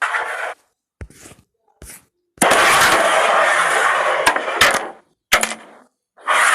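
Carrom striker and coins clicking sharply against each other several times. About two and a half seconds in there is one long scrape of about two and a half seconds, louder than the clicks.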